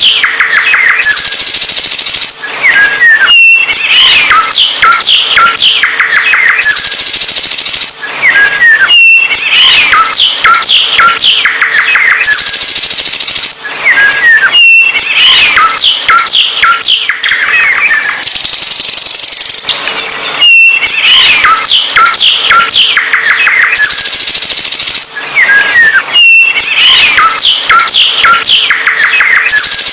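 A songbird singing continuously in a fast, varied song of chirps, trills and whistled glides. The same song sequence repeats about every six seconds.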